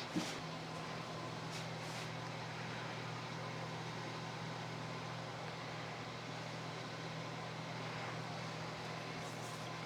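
Steady low machine hum with an even hiss, and a few faint small handling noises.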